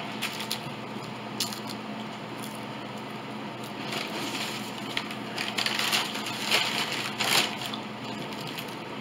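Close-up eating sounds: crisp food being bitten and chewed, a few sharp crunches early and a denser run of crunching and crackling about halfway through.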